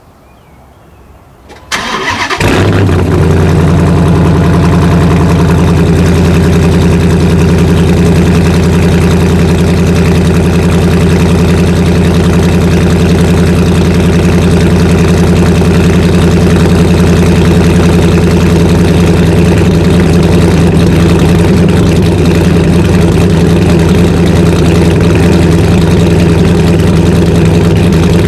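Cold start of a 2009 Dodge Challenger SRT8's 6.1-litre Hemi V8, fitted with an Inertia SRT MAX Plus cam and catless midpipes with the resonator deleted. The starter cranks briefly and the engine fires up about two seconds in, then settles into a loud, steady idle through the exhaust.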